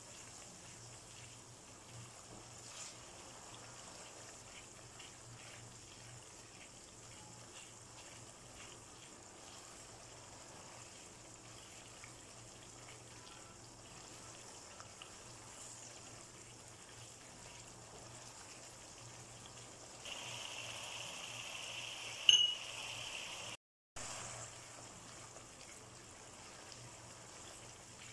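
Chana dal masala with green chillies frying in oil in a nonstick wok: a quiet, steady sizzle as it is stirred with a silicone spatula. About twenty seconds in the sizzle grows louder for a few seconds with a single sharp click, then the sound cuts out briefly.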